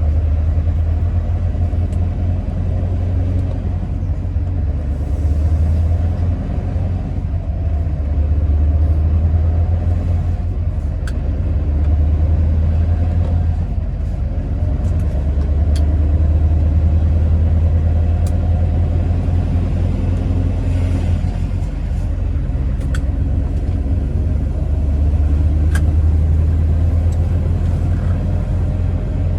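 Scania R650's 16-litre V8 diesel engine running while driving: a steady deep rumble that swells and eases every few seconds as the load changes, with a few faint sharp ticks.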